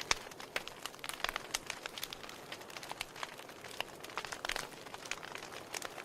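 Wood fire in a fireplace crackling: a soft steady hiss with many sharp, irregular pops and snaps from the burning logs.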